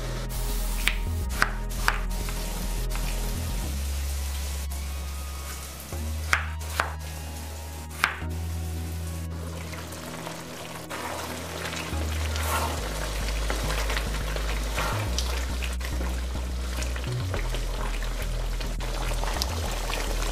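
Chicken curry simmering and sizzling in a frying pan, with a few sharp clicks in the first half, over background music with a steady bass line.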